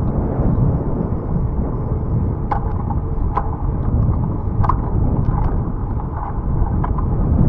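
Wind buffeting the microphone of a moving bicycle ride, a loud steady rumble. A few short, sharp sounds stand out over it in the middle.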